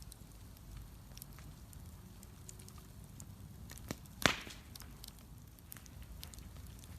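Bonfire of burning wood crackling, with scattered small snaps over a low rumble and one loud pop a little after four seconds in.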